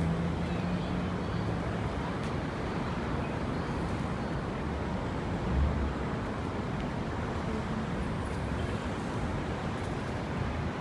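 Steady city street traffic with low engine rumble from passing vehicles, swelling briefly louder about five and a half seconds in.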